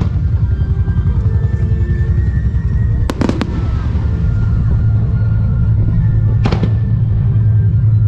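Aerial firework shells bursting in a music-synchronised display: a quick cluster of sharp bangs about three seconds in and another bang about six and a half seconds in, over show music playing throughout.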